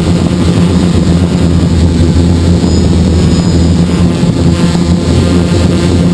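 Multirotor hexacopter's electric motors and propellers running steadily in flight, heard from the camera carried on the craft, a loud even drone with a low hum.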